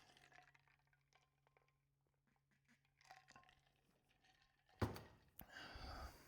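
Mostly near silence with faint small clicks, then a sharp knock about five seconds in, followed by about a second of clattering handling noise from parts being worked on.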